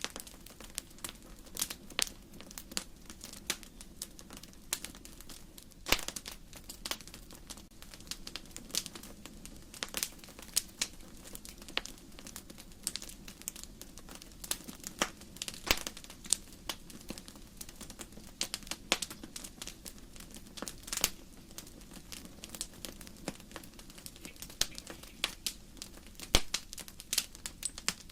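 Wood fire crackling in a fireplace: burning logs giving irregular sharp pops and snaps over a low steady rush.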